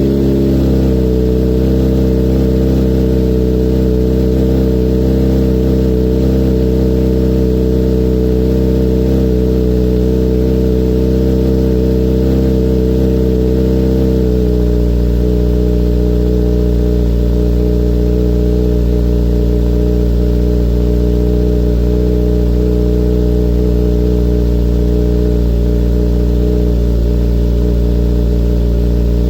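Kawasaki Z900 inline-four idling through an Akrapovic full exhaust with the dB killer removed, warming up after a cold start. The idle is loud and steady, and about halfway through it steps down to a slightly lower pitch.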